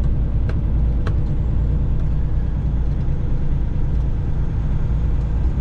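Cat 3406E diesel of a Freightliner FLD120 semi truck running steadily under way, a low drone mixed with road noise, heard from inside the cab. A couple of faint clicks come about half a second and a second in.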